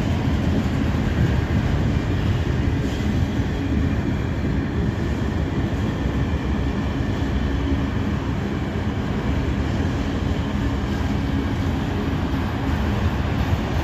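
Freight train cars, including autoracks, rolling past close by: a steady rumble of steel wheels on the rail, with a faint steady tone running through it.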